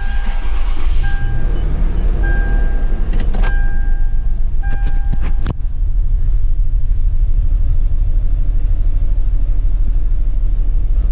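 2004 Toyota 4Runner engine starting and running rough with a cylinder misfire (codes for cylinders 2 and 6): a heavy, uneven low rumble that shakes the truck. A dashboard warning chime beeps about five times in the first five seconds, along with a few clicks.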